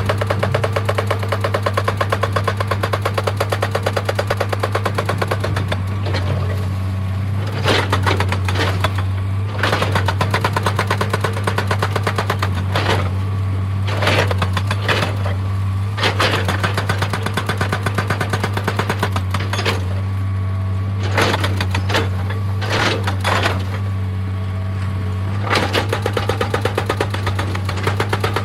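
Excavator-mounted hydraulic rock breaker hammering stone in a rapid, steady rhythm over the excavator's diesel engine, which holds a constant low hum. Sharper, louder knocks of rock cracking and striking come now and then through the run.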